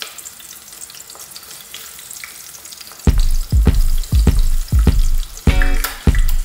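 Chopped garlic sizzling in hot oil in a large metal stockpot as it is stirred with a wooden spoon. About three seconds in, much louder background music with a heavy, regular bass beat comes in over the sizzle.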